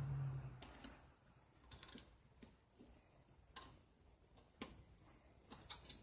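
A low hum fades out within the first second, then faint, irregular light clicks and taps follow, about ten in all, the sharpest ones a second apart near the middle, typical of small metal parts or tools being handled at a workbench.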